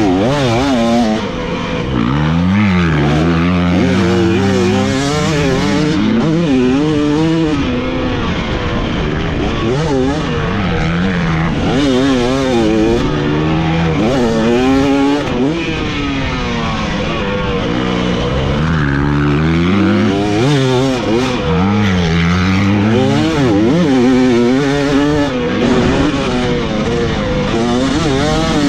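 Motocross dirt bike engine revving hard and backing off again and again. The pitch climbs and drops every second or two through the whole stretch.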